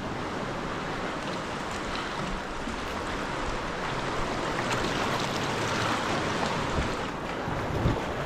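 Sea water washing and splashing around a sea kayak, a steady rushing with a few low thumps near the end.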